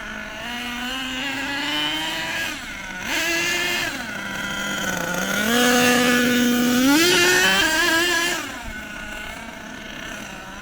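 HPI Savage SS nitro RC truck engine running and being revved up and down in several rising and falling surges. It is loudest and highest-pitched a little past the middle.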